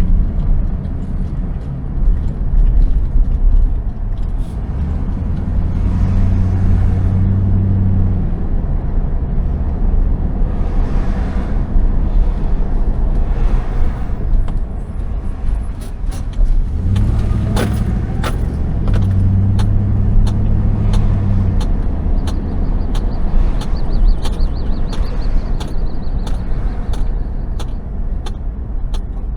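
Car driving: steady engine and road rumble, with a low hum that swells twice. A run of evenly spaced ticks comes in the second half.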